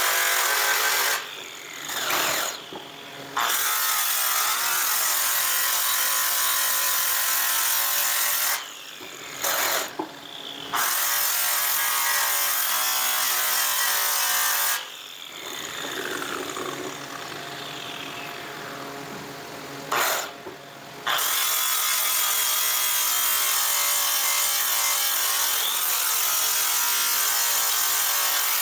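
Electric power polisher buffing a metal airplane exhaust pipe, running steadily. It stops three times, once for several seconds about halfway through, and a falling whine is heard each time it winds down.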